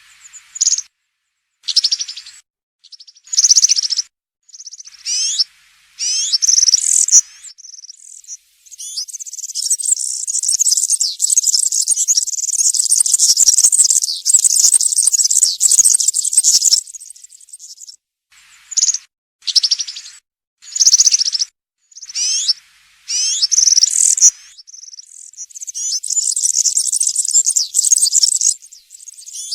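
European serin singing: high, rapid jingling phrases, short ones broken by pauses, and two longer unbroken runs of song lasting several seconds, the second running into the end.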